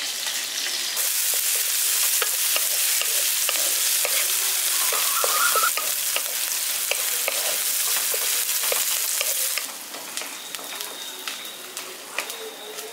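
Chopped onion and green chillies sizzling in hot oil in a kadai, with a wooden spatula stirring and clicking against the pan. The sizzle drops sharply to a softer level about two-thirds of the way through.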